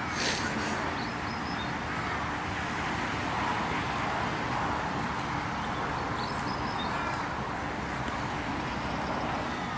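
Steady outdoor background noise like road traffic, with no clear single event.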